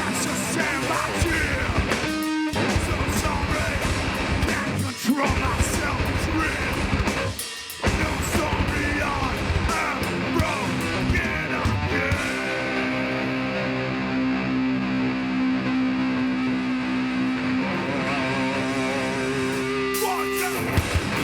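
Live heavy hardcore band playing loud distorted electric guitars, bass and drums, with three short full-band stops in the first eight seconds. From about twelve seconds a guitar chord is left ringing, held for several seconds with the drums mostly dropping out, before the band hits again near the end.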